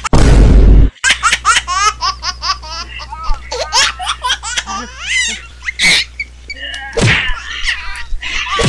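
High-pitched laughter, a long run of quick chuckling bursts. It opens with a short, loud rush of noise, and a couple of knocks come about two thirds of the way through.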